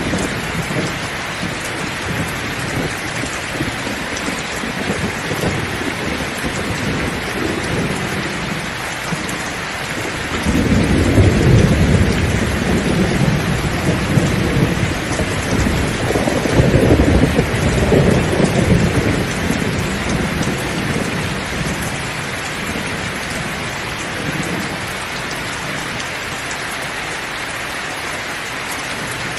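Heavy rain falling steadily. About a third of the way in, a long roll of thunder rumbles low under it, swelling twice before dying away.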